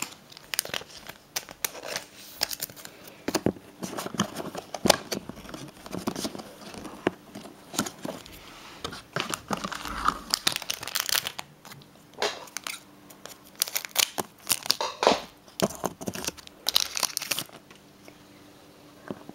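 Foil booster-pack wrapper being torn open and crinkled by hand: irregular crackles and rustles that thin out near the end.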